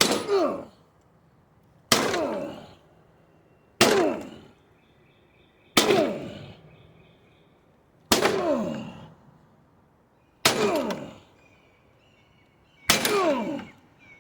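Heavy blows struck on a lawn mower, seven in all, about one every two seconds. Each is a sharp crash with a metallic ringing that drops in pitch as it fades.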